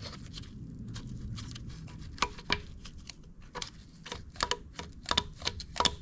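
Valve lifter being twisted and worked in its bore in a DeSoto Hemi engine block, giving irregular light metallic clicks and taps from about two seconds in. The lifter is held in place by carbon built up underneath it.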